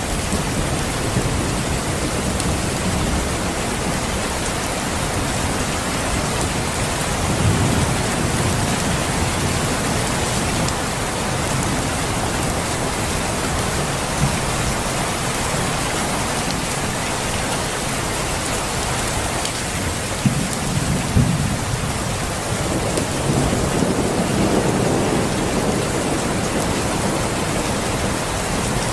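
Steady rain with low rolls of thunder, about 7 seconds in, again around 20 seconds in and once more a few seconds later.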